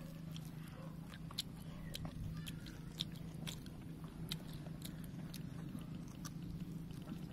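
Two people chewing and biting oxtail meat off the bone, with scattered small wet clicks and smacks from their mouths, over a steady low hum.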